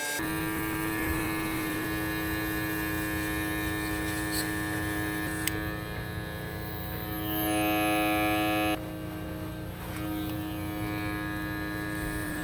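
Small electric motor tool, such as a rotary grinder, running steadily: a high whine of several held pitches over a low hum, shifting slightly about seven seconds in and changing abruptly near nine seconds.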